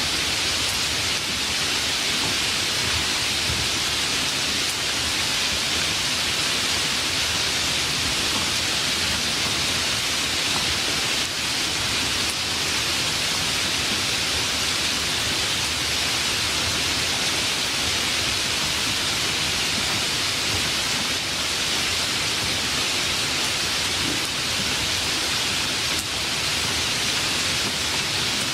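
Steady heavy rain, an even hiss that holds at one level throughout.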